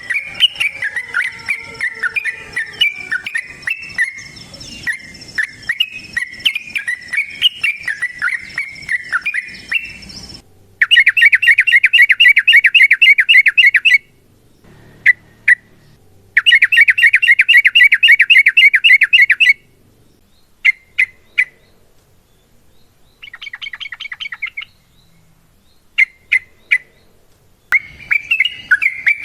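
Yellow-vented bulbuls (trucuk) singing. A dense chattering song cuts off abruptly about ten seconds in. Then come two loud, very rapid trills of about three seconds each, separated and followed by short chirps and a fainter trill, before the chattering resumes near the end.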